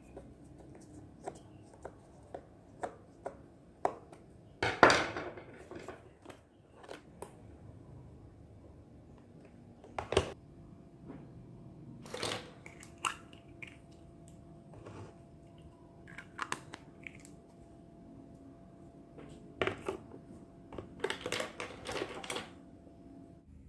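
Small plastic toy kitchen pieces being handled: scattered light clicks and taps, with a few louder crackly bursts. The loudest comes about five seconds in.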